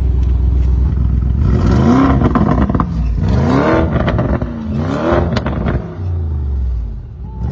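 Lamborghini Urus Mansory Edition's 4-litre twin-turbo V8 through its aftermarket Mansory exhaust, held open in Corsa mode: it idles steadily, then is revved three times, each rev rising and falling back over about a second.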